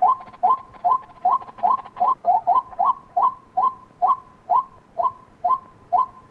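White-breasted waterhen calling: a steady, rapid series of short, clipped notes, about two and a half a second.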